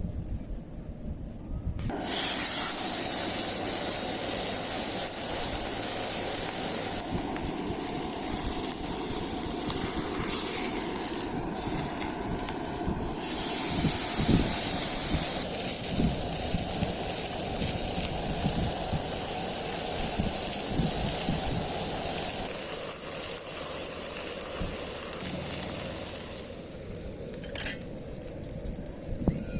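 Beef steak sizzling in a hot pan over a portable gas burner: a loud, hissing sizzle that starts suddenly as the meat goes in and fades away near the end.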